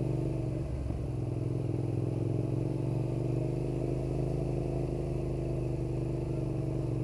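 Suzuki SV650's 90-degree V-twin engine idling steadily with an uneven, loping beat, typical of an engine that has not been properly warmed up and has already stalled once.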